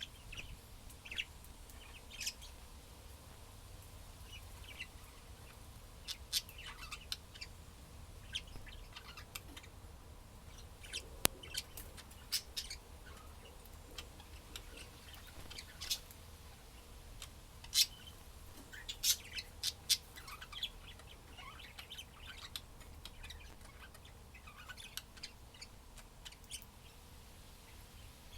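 Budgerigars chirping in short, irregular twitters over a steady low hum, with one sharp click about eleven seconds in.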